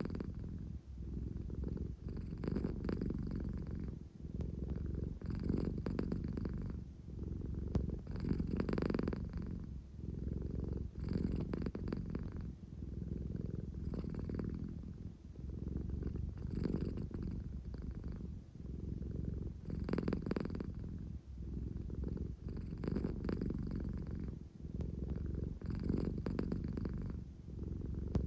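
An American Shorthair cat purring steadily, swelling and easing with each breath about every three seconds. It is the purr she makes when she is sleepy and wants affection.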